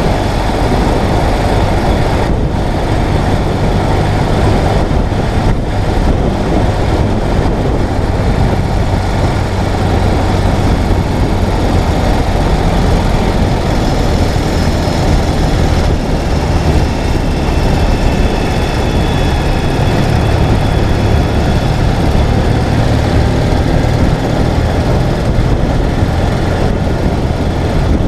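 Ural sidecar motorcycle's air-cooled boxer-twin engine running steadily while riding, with loud, continuous road and wind noise.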